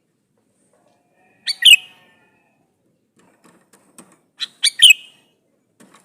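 Male sooty-headed bulbul calling twice, each call a quick phrase of a few sharp, high notes, about three seconds apart.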